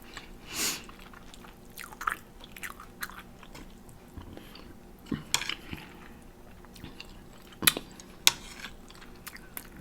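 A person chewing food close to the microphone, with scattered wet mouth clicks and smacks. The sharpest clicks come a little after five seconds and around eight seconds in.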